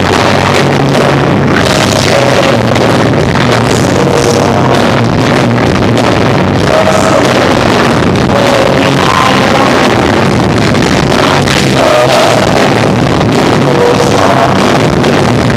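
Live rock band playing loud, with electric guitar, bass and drums, recorded with poor, overloaded sound that blurs into a dense wash.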